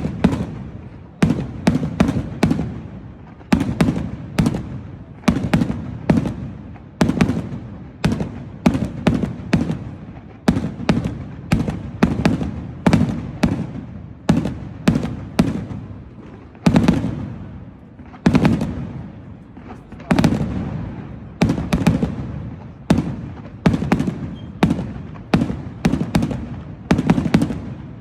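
Fireworks display: a rapid, continuous barrage of aerial shell bursts, several loud bangs a second, each trailing off in a rumbling echo.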